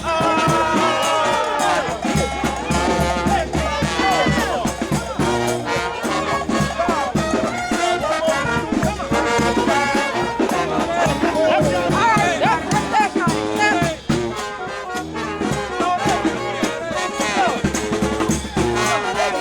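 New Orleans brass band playing, with trumpets and trombones carrying the melody over a low bass line and a steady drum beat.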